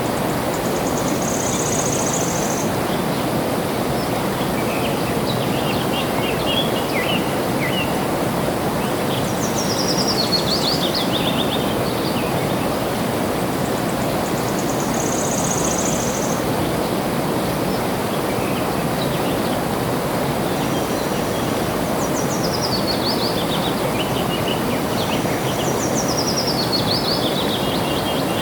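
Steady rush of flowing water, with birds singing over it: several quick runs of notes that step down in pitch, short high buzzy trills, and scattered chirps.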